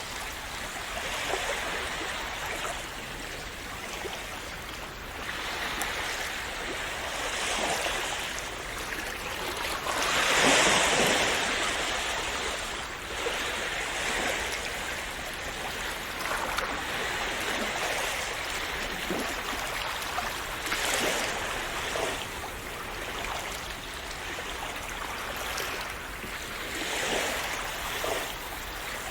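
Calm sea waves splashing and washing in a continuous rush that swells and eases every few seconds, with the largest wave surging about ten seconds in.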